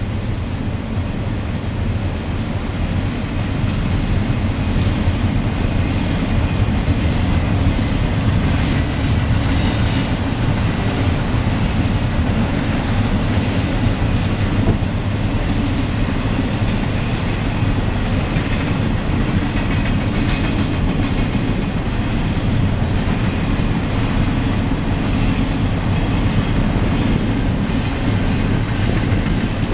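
A freight train's cars rolling past, a steady, loud rumble of steel wheels on the rails with some clicking and clacking.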